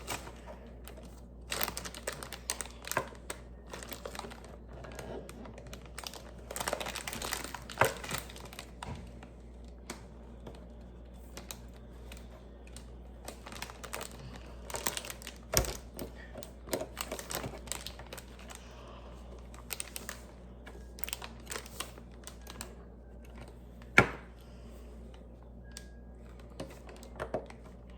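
Small plastic Lego pieces clicking and clattering as they are handled and pressed together, with some crinkling from about 6 to 8 seconds in and one sharper click near the end.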